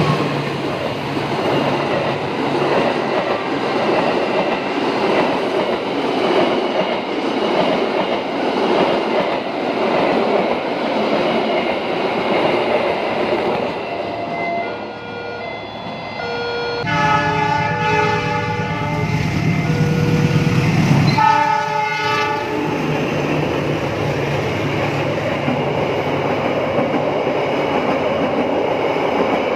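Passenger trains running past at close range, a steady rush of wheels on rail. About halfway through, a locomotive's air horn sounds a long chord of several notes, then a short second blast, and the running noise of a train goes on.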